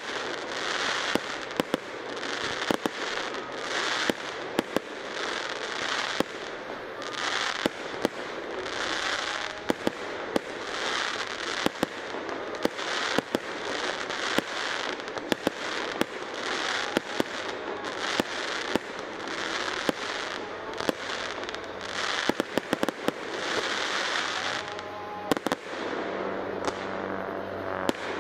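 Aerial fireworks display: shells bursting in a quick, uneven run of sharp bangs, several a second, with crackling hiss from the stars between them.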